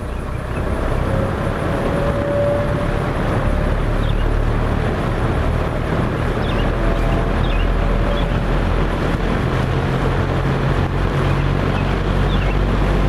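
Mid-1970s Frigid B3300 box fan with four-wing metal blades running on medium speed: a steady rush of air over a low motor hum, growing louder over the first couple of seconds and then holding level.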